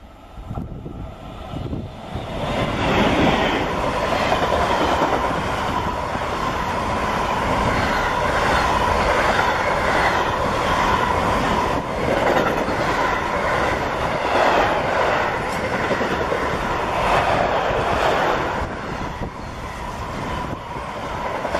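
An SNCF BB 27000-class electric locomotive hauls an intermodal freight train of container and tank-container wagons past at speed. The sound rises sharply about two and a half seconds in as the train reaches the microphone. Then comes a steady, loud rolling noise of steel wheels on rail, with regular clicks of wheelsets and a thin steady tone.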